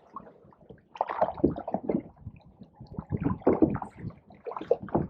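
Canoe paddles dipping and pulling through the water, splashing and gurgling in two bouts, about a second in and again from about three seconds in.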